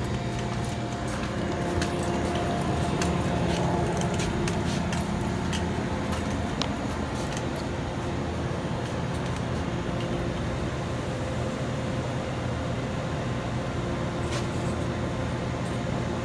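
Steady machinery hum of a grocery store's background, with a few faint clicks and taps.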